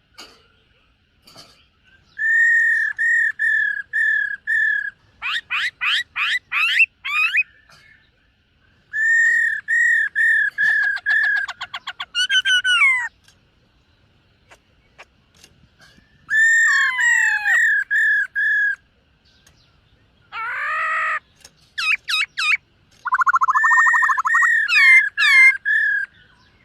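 Black-throated laughingthrush singing in loud bouts: runs of five or six repeated clear whistled notes, fast sweeping whistles and a rapid trill, with pauses of a second or two between phrases.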